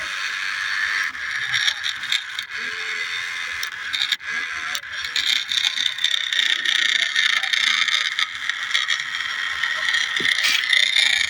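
Small geared electric motor of a remote-control New Holland toy tractor whirring steadily at a high pitch as it drives, with scattered clicks and scrapes.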